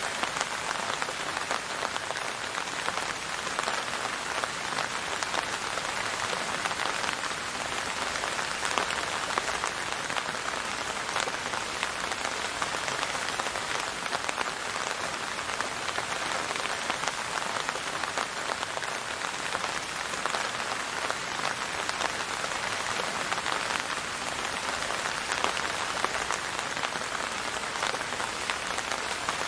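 Steady heavy rain falling on a surface, a dense, even patter of many drops with no thunder.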